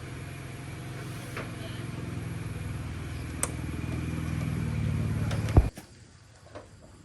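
A motor running with a low, steady hum that slowly grows louder, with a couple of light clicks, then a sharp thump about five and a half seconds in, after which it stops abruptly.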